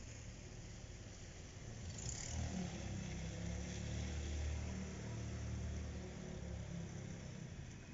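Low rumble of a passing diesel freight train that swells for a few seconds and then eases off, over a steady hiss of rain.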